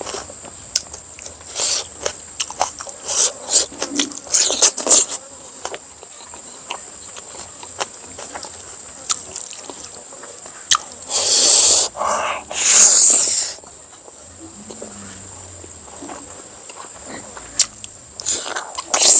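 Close-up eating sounds: chewing, with short clicks and scrapes and two longer slurp-like noises about 11 and 13 seconds in. A steady high-pitched insect drone runs underneath.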